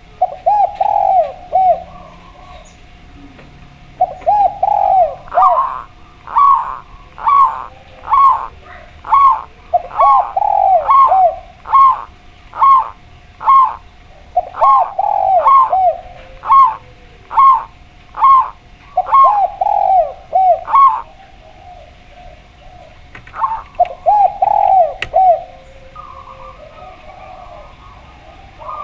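A spotted dove and a zebra dove calling against each other. Lower cooing phrases recur every few seconds, and between them come long runs of higher, evenly spaced notes at about two a second.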